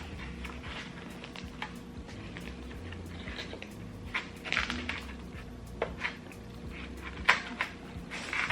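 Light handling clatter of small containers and packets: scattered clicks, knocks and brief rustles, a few sharper ones in the second half, over a faint low hum.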